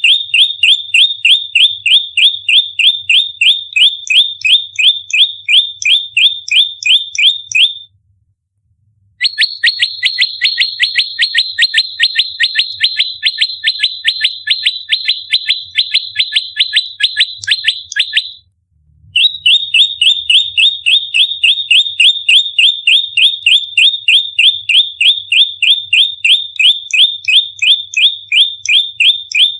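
Bar-winged prinia (prenjak lumut) giving its agitated fighting call: a rapid, evenly spaced stream of sharp, high notes at about five a second. It comes in three long runs broken by two short pauses, about 8 and 18 seconds in, and the middle run is a little higher and faster.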